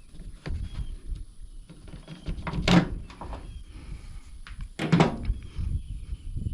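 Hands working with parts and connectors during a wiring repair: low rustling and handling noise, with two sharp knocks, one a little before halfway and one about five seconds in.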